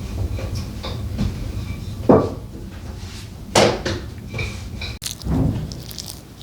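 Three separate knocks or thumps, like wooden objects being handled or set down, over a low steady background rumble.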